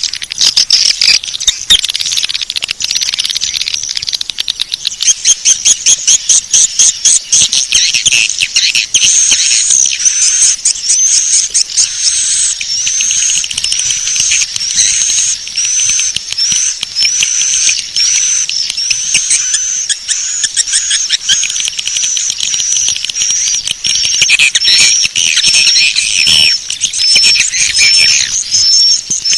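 Swiftlet call lure recording: dense, high twittering chirps of edible-nest swiftlets, the sound played at swiftlet houses to draw the birds in. From about a third of the way in, a repeated short arched chirp stands out, coming a little more than once a second.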